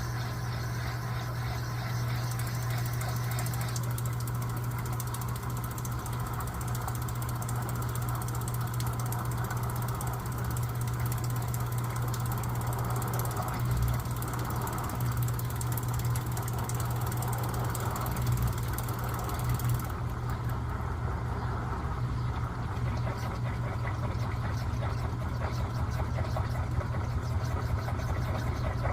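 Electrolux LTA15 washing machine running mid-cycle, a steady low motor hum. The higher hiss over it thins out about twenty seconds in.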